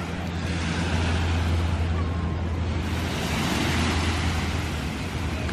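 Ocean surf washing onto the beach, a steady rushing that eases briefly about two seconds in and builds again, with wind rumbling on the microphone.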